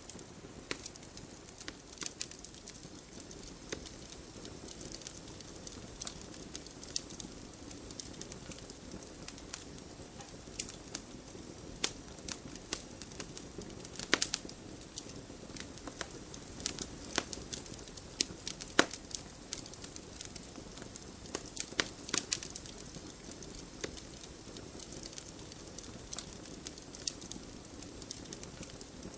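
Wood fire burning in a fireplace: a steady soft rush of flames with frequent irregular crackles and pops, a few louder snaps around the middle.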